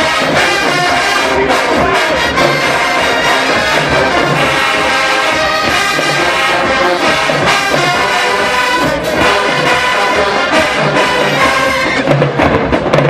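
HBCU marching band playing loud brass music over a steady bass-drum beat. About twelve seconds in, the percussion comes forward with sharper hits.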